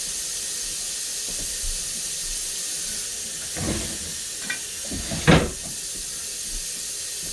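Steady hiss of steam from pots cooking on a stovetop, with a couple of knocks of cookware; the louder knock comes about five seconds in.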